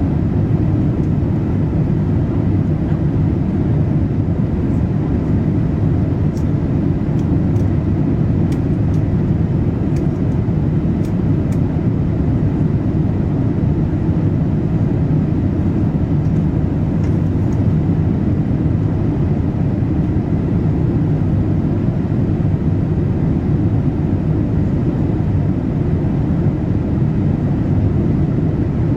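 Steady low rumble of airflow and engine noise inside the cabin of a Boeing 787-8 airliner in flight, with a few faint ticks several seconds in.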